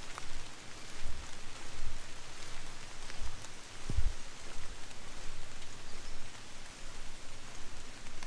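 Steady hiss of water, rain or a running creek, with a few dull low thumps.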